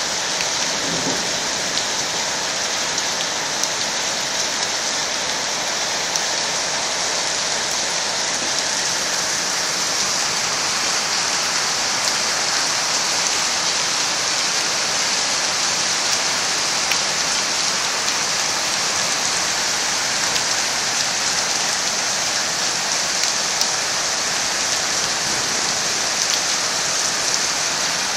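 Hail falling steadily: a dense, even hiss of countless small hailstone impacts.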